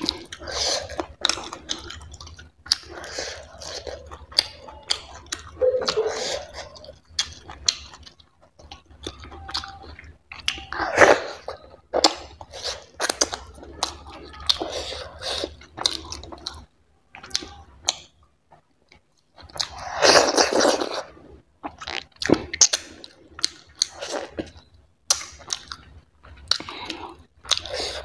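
Close-miked chewing and wet mouth sounds of eating dhido and chicken curry by hand, a steady run of small smacks and clicks, with a few louder crunchy bites.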